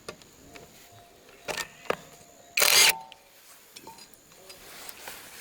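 Scattered metal clicks and knocks from hand work on engine parts, with one loud, short burst of noise a little past halfway.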